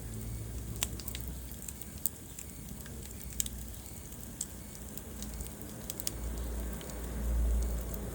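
Wood fire burning in a fireplace, crackling with scattered sharp pops over a low rumble that swells near the end.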